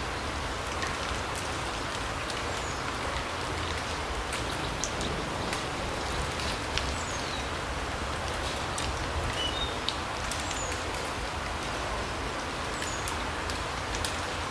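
Forest ambience: a steady, even hiss with scattered faint ticks, and short high bird chirps now and then.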